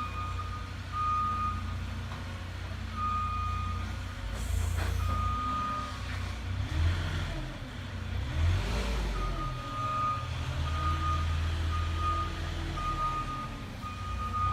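Forklift backing up with its reversing alarm beeping at one steady pitch, over its engine running. The engine rises and falls in pitch a few times as it revs.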